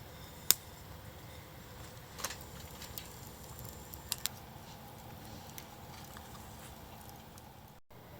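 A few scattered sharp clicks or taps, the loudest about half a second in and a close pair about four seconds in, over a steady low background hiss.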